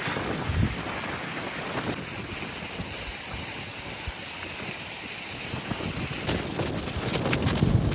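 Strong wind buffeting the microphone, a steady rushing noise with low gusty thumps that grow louder near the end.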